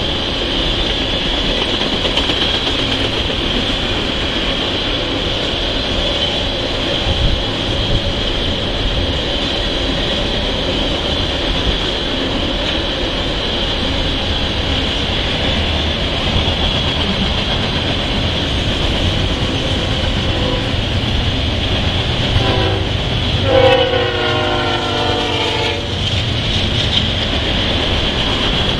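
Freight cars rolling past with a steady rumble and wheel clatter on the rails. Near the end, a diesel locomotive's horn blows, rising from faint to loud for about two and a half seconds.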